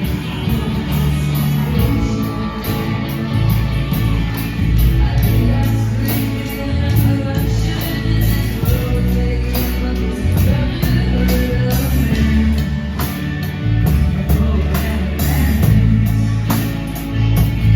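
Rock band music with singing, over a steady drum beat and bass.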